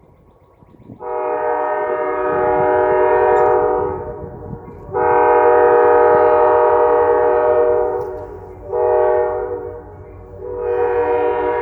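Diesel locomotive air horn sounding a chord in the grade-crossing signal: two long blasts, one short, then a final long blast that starts near the end. The train's low rumble runs underneath.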